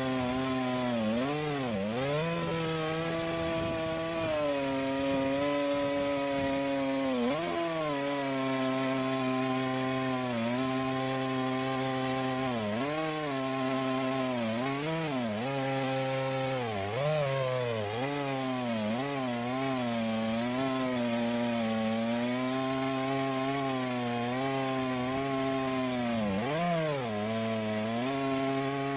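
Two-stroke chainsaw in a Granberg Alaskan chainsaw mill, ripping a log lengthwise at high revs under load. Its pitch dips sharply and recovers several times as the engine bogs in the cut.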